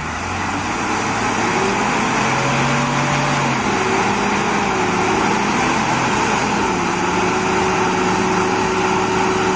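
Heavy machine engine running hard, its pitch drifting up and down, until it cuts off suddenly near the end.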